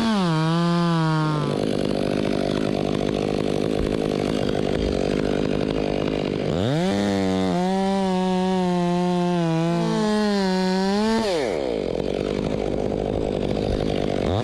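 Chainsaw cutting blocks from a western red cedar trunk. It revs to full throttle twice, the second cut lasting about four seconds, its pitch sagging and wavering under load, and drops back to a lower running speed between and after the cuts.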